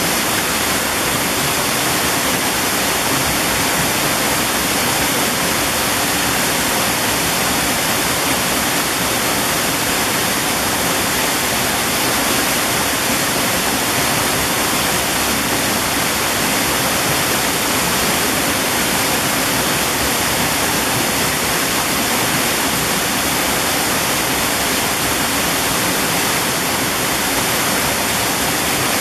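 Mountain valley stream water rushing steadily and evenly.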